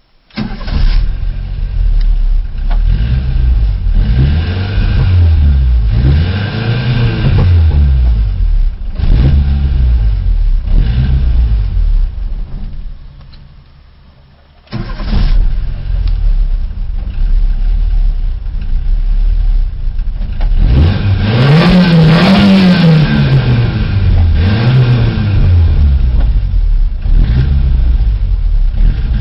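Suzuki SJ413's 1.3-litre four-cylinder petrol engine, heard from inside the cabin, fires up and is blipped again and again, its pitch rising and falling with each rev. About halfway through the revs fade away as the engine dies, then it fires up again suddenly and is revved more, with one higher rev about two thirds in. It does not hold a steady idle, which the owner says is still not right.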